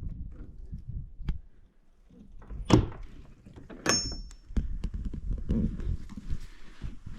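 Door of a wildlife viewing blind being opened: a sharp clack a little under three seconds in, then a second knock about a second later with a brief high ringing tone.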